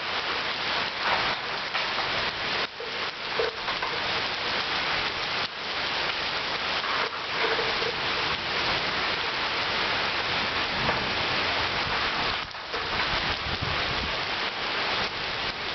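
Heavy rain falling and pattering on surfaces: a dense, steady hiss.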